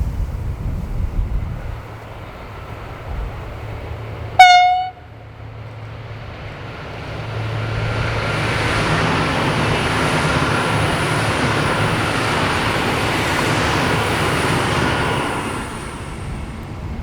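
Diesel train sounding one short, sharp horn toot, then passing with a swelling rumble of wheels on rail and a thin high squeal over it, fading near the end.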